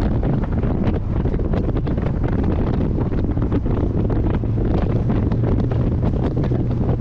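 Heavy wind buffeting the microphone of a moving C3 Corvette, over the steady low drone of its small-block Chevy 350 V8.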